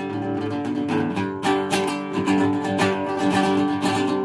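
Instrumental break of a country song: strummed acoustic guitar chords with a steady rhythm.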